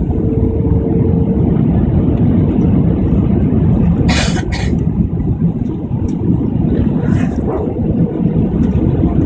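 Airliner cabin noise during landing: a steady low rumble from the engines and airflow, with a brief rattling hiss about four seconds in and a weaker one near seven seconds.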